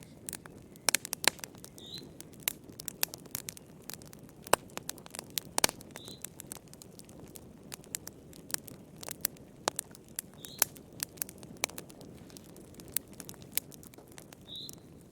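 Wood fire crackling in a fireplace: irregular sharp pops and snaps, several a second, over a soft steady rush of flames.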